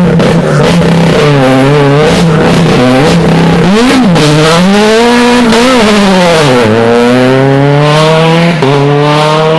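Rally car engine under hard driving, the revs rising and dropping again and again through gear changes and lifts, then pulling up in one long rising run near the end, with sharp cracks and pops mixed in.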